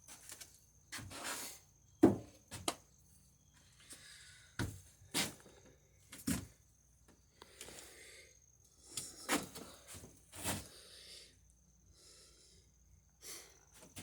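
Workshop handling noises on a wooden boat: scattered sharp knocks and clicks, with a few short scraping strokes.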